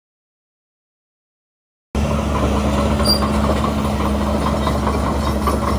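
Dead silence for about two seconds, then a heavy diesel construction machine running steadily with a constant low hum and a light, fast clatter.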